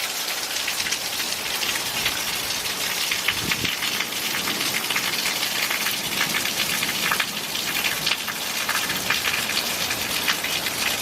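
Torrential downpour: heavy rain pouring down, a dense steady hiss of countless drops striking the ground.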